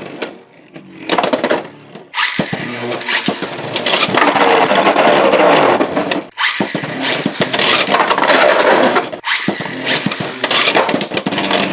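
Beyblade X spinning tops clashing and grinding against each other and the plastic stadium walls, a loud dense rattle full of sharp clicks. It breaks off abruptly about 2, 6 and 9 seconds in, as one battle ends and the next starts.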